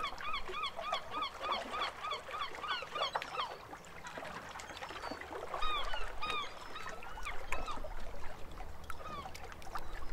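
Birds calling: a quick run of repeated calls, about four a second, for the first three seconds, then scattered single calls, louder around six seconds in.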